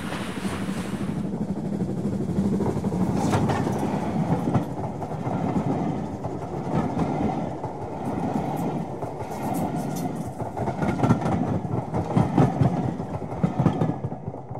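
Railway carriages running past close by: a steady rumble with irregular clicks of the wheels over rail joints.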